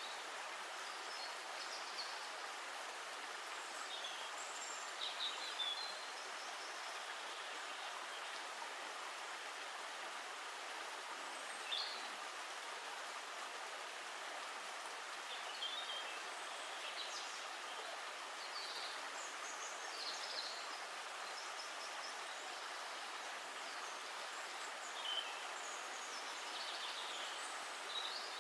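Steady rush of running water, with short high bird chirps every few seconds.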